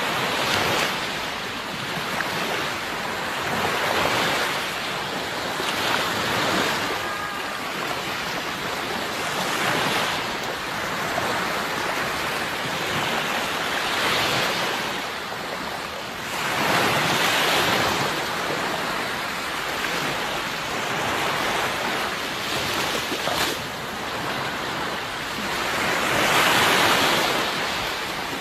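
Sea waves breaking and washing on a shore, a steady rush of surf that swells and ebbs, the biggest breakers coming at about 17 seconds and near the end.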